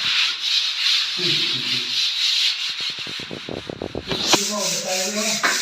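Sanding of dried wall putty: a continuous abrasive rubbing hiss, with brief voices over it about a second in and again near the end.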